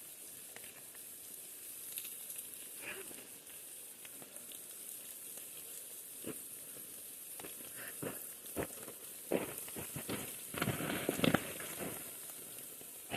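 Faint steady hiss of falling water, with scattered clicks and, in the second half, a run of louder scuffs and rustles.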